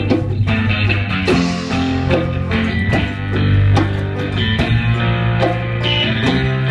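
Guitar-led live music, an instrumental passage of plucked guitar notes over deep held low notes.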